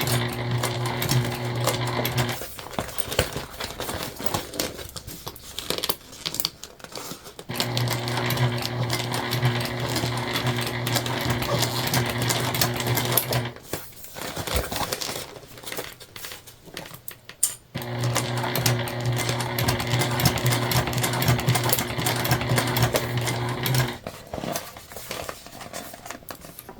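Sewing machine with a walking foot stitching jelly vinyl, running in three steady bursts of several seconds each with short pauses between.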